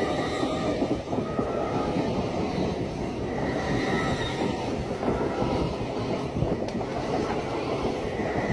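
A train running along the track, a steady rumble of wheels on rails with some clatter over the joints and a faint high whine.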